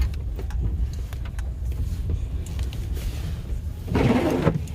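Pickup truck driving, heard from inside the cab: a steady low engine and road rumble. Near the end comes a brief louder noisy burst lasting about half a second.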